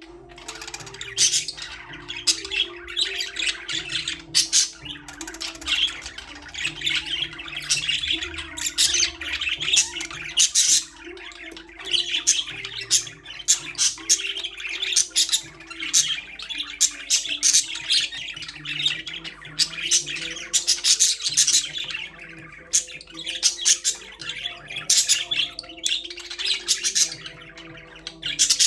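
Budgerigars chirping and squawking in a continuous stream of short, sharp calls.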